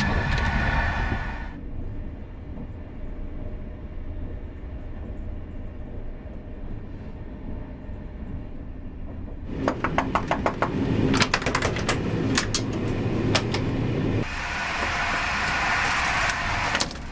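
Train running noise from inside a carriage: a steady rumble that jumps between louder and quieter stretches. A run of sharp clicks and rattles comes about ten seconds in.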